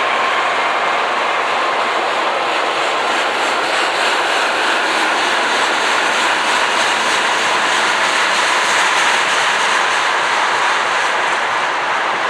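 A train passing close by: a loud, steady rush of wheels rolling on the rails.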